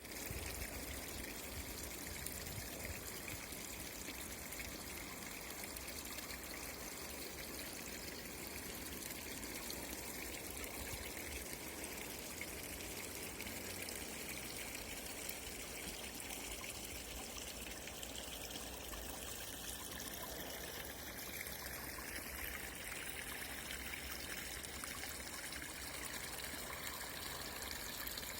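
Water of a forest spring trickling, a steady flow that does not change.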